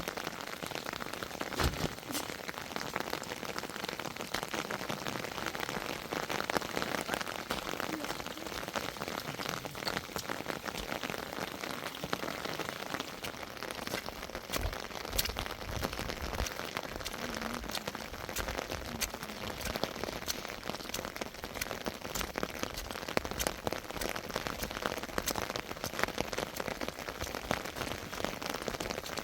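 Rain falling steadily, with many sharp drop hits among the patter.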